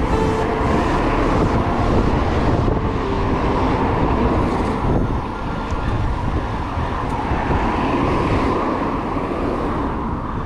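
Steady rushing noise, like wind buffeting the microphone mixed with road or traffic noise, fading slightly after about five seconds.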